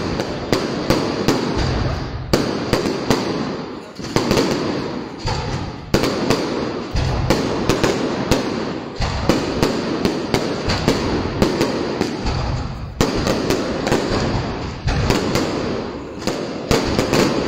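Aerial fireworks bursting overhead in a loud, unbroken barrage of sharp bangs and crackles, several a second.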